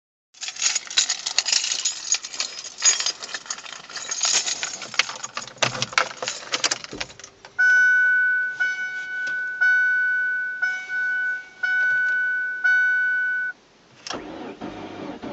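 Car keys jangling on a key ring as the key goes in, then a 2003 Ford Focus's dashboard warning chime ringing six times, about once a second. Near the end a low mechanical rumble starts suddenly: the starter beginning to crank the cold 2.0 Zetec engine at -18C.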